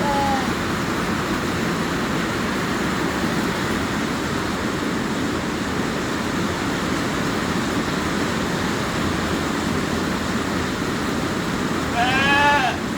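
Hard rain falling, a steady loud hiss. A short pitched call sounds at the very start and again about a second before the end.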